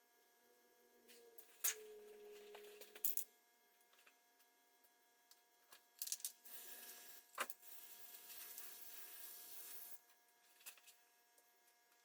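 Faint work noises: a few sharp clicks and two stretches of rubbing or hissing noise, over a faint steady hum.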